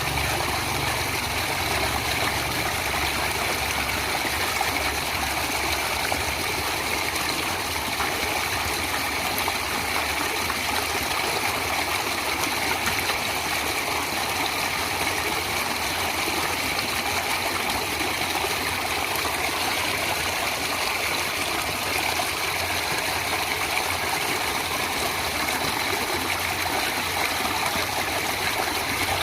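Stream water flowing steadily, an even rushing and trickling noise.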